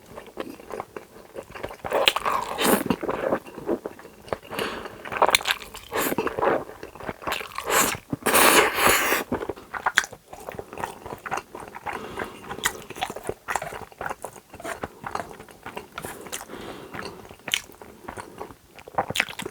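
Close-miked eating: chewing and biting of food right at the microphone, with frequent wet clicks and crunches and a longer, louder noisy stretch about eight seconds in.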